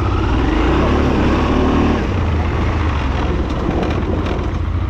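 Honda Transalp XL650V motorcycle's V-twin engine running as it is ridden slowly over rough off-road ground.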